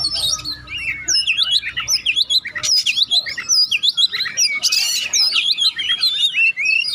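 Oriental magpie-robin (kacer) singing a fast, unbroken run of varied whistled notes and chirps, with a harsh rasping note about five seconds in. This is the busy, nonstop 'gacor' singing that bird keepers play to prompt a quiet magpie-robin to sing.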